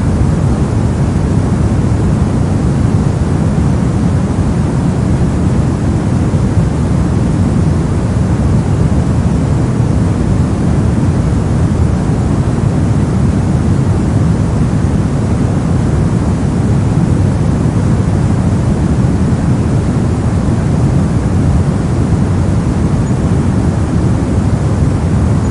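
Brown noise: a steady, even hiss, strongest in the lows, falling off toward the highs.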